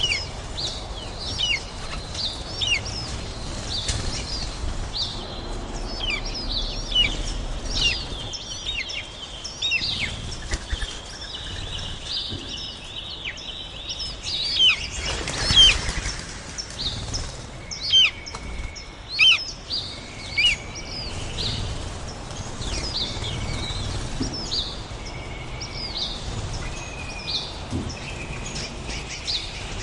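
Small birds chirping and calling, many short quick notes sweeping downward, mixed with a few held whistled notes, and a brief rush of noise about halfway through.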